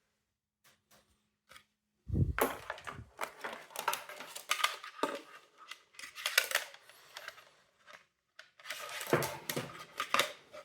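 Hard plastic parts of a window vacuum cleaner clicking, creaking and scraping as the casing is handled and pried apart. Faint clicks come first, then about six seconds of dense crackling and scraping, a brief pause, and another burst near the end.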